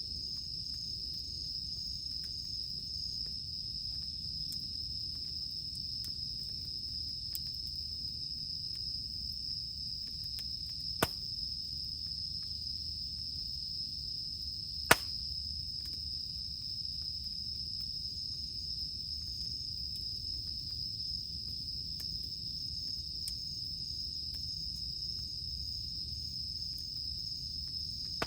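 Cicadas droning steadily over a campfire burning with a low rumble, with two sharp pops from the burning wood about eleven and fifteen seconds in.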